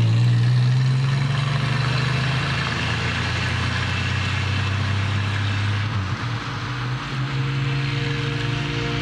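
Vehicle engine running steadily under way, a low steady hum under a haze of wind and road noise, dipping briefly about six seconds in.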